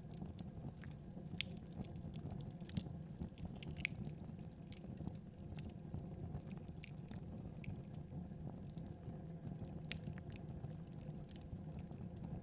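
Wood fire burning with a steady low rush of flames and irregular sharp crackles and pops from the burning logs.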